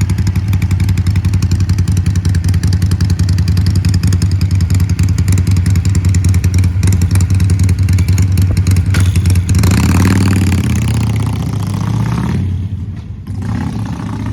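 Harley-Davidson Sportster V-twin engine running loudly through its exhaust with a fast, even pulsing beat; about ten seconds in the sound shifts, and it dips briefly near the end.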